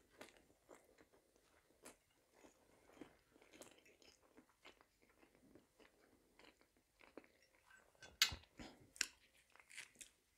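Faint, close-up chewing and mouth sounds of a person eating: small wet clicks and crunches, with a sharper crackle about eight seconds in and another about nine seconds in.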